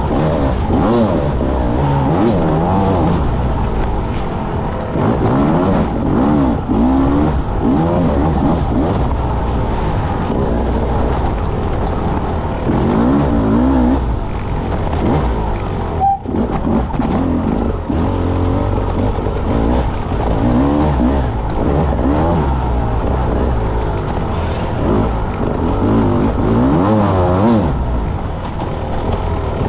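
Enduro motorcycle engine under hard riding, its revs rising and falling again and again with the throttle. The engine note drops out sharply for a moment about halfway through.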